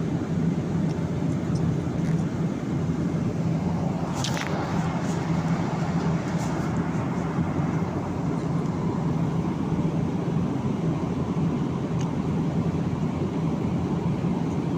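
Steady airliner cabin noise: the even rushing drone of a jet in flight, with a low hum running underneath. One brief click about four seconds in.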